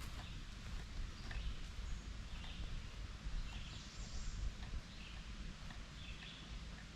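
Birds calling here and there in woodland, short high chirps over a steady low rumble.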